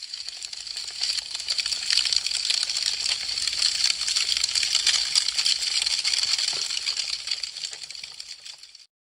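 Wood fire crackling, a dense stream of rapid small pops and snaps. It swells up over the first second, holds steady, then fades and drops away just before the end.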